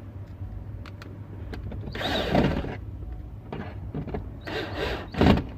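A screwdriver driving a screw into the head unit's mounting cradle in the dash, in two short runs with small clicks and taps between them.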